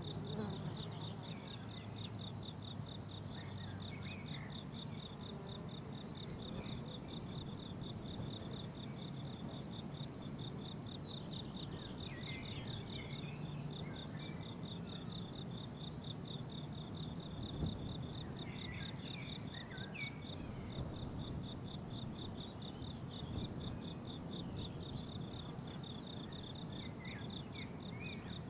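Crickets chirping steadily in a summer meadow, a continuous high, pulsing chorus of several chirps a second.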